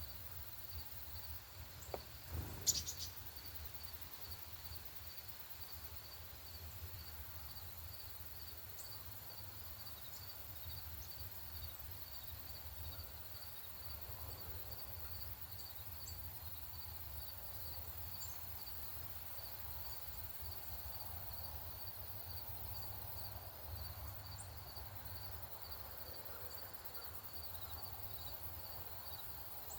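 An insect chirping steadily in an even pulsing rhythm at a high pitch, over a low rumble of outdoor background noise. A sharp knock sounds about two and a half seconds in, and a few faint short high chirps come and go.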